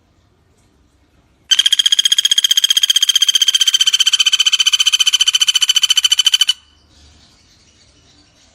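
Common flameback woodpecker giving its rattling call: a fast, even trill of about ten notes a second. It starts about a second and a half in and lasts about five seconds before cutting off.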